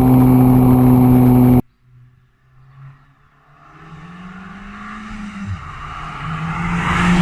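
Ford Fiesta ST Mk7's 1.6-litre turbocharged four-cylinder engine and exhaust running loud and steady at high revs, then cutting off abruptly about a second and a half in. After a short near-quiet gap, the car approaches, its engine note growing steadily louder until it passes close near the end.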